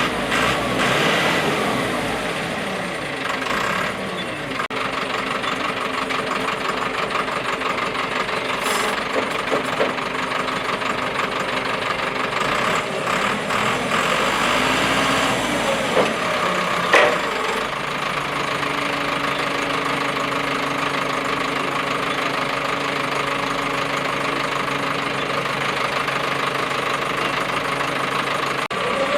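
Crane truck's engine running steadily. About 17 seconds in there is a single sharp clack, and from about 18 seconds it settles into a steadier, deeper drone.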